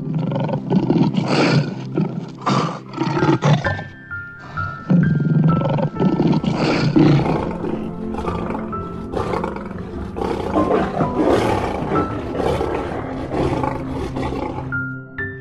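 Male lion roaring in a run of repeated rough calls, over background music with sustained notes.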